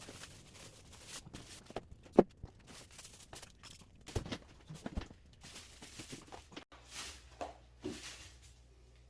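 Scattered short knocks, clicks and rustling, as of objects being handled, with one sharp knock about two seconds in. After an abrupt cut near seven seconds a low steady hum takes over.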